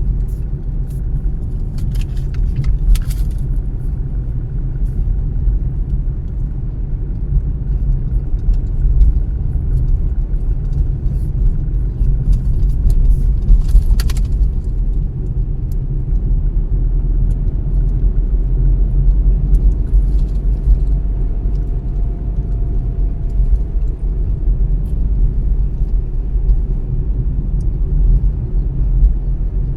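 A car driving at steady speed: a continuous deep rumble of engine and tyres on the road, with a few short clicks or rattles a few seconds in and again about halfway through.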